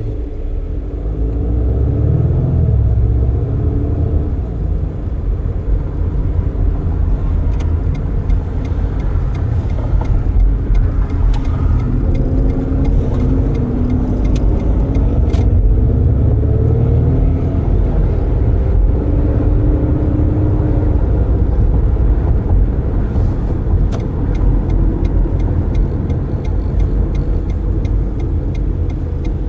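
A car being driven with its windows open: steady tyre and wind rumble, with an engine hum that rises and falls.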